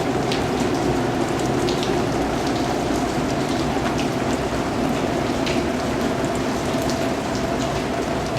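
Steady rain falling, a continuous even hiss with scattered individual drops standing out now and then.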